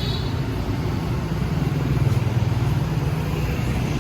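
Steady city street traffic: motor vehicle engines running and passing, a continuous low hum over road noise, with a brief high-pitched beep at the very start.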